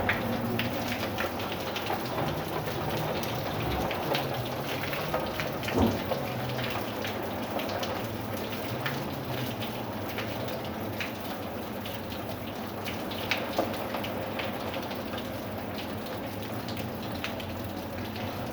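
Steady rain, with many separate drop hits and one sharper hit about six seconds in. A faint low drone wavers in pitch through the first half.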